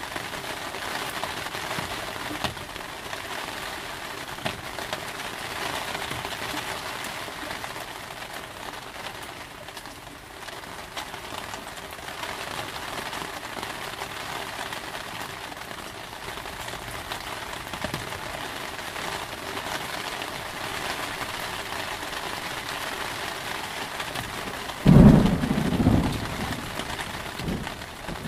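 Steady heavy rain falling, with a sudden loud thunderclap near the end that rumbles low for a second or two before fading back under the rain.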